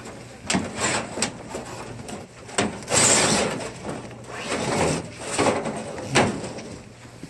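Irregular sharp knocks and clacks with scraping, including a longer scraping rush about three seconds in.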